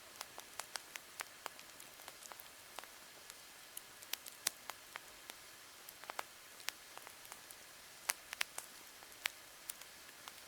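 Wood campfire crackling: irregular sharp pops and snaps, a few louder than the rest, over a steady faint hiss.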